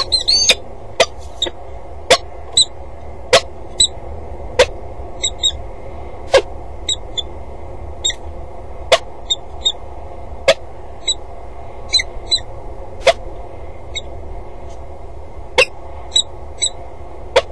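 Short high chirping calls of small birds, in small groups, with sharp clicks about once a second, over a low steady hum.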